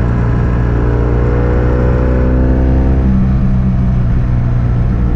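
BMW F800S parallel-twin engine running through a GPR Furore Nero aftermarket exhaust with its dB-killer fitted, heard close from a bike-mounted microphone while riding. The pitch climbs gently under throttle, then the engine note changes abruptly about three seconds in.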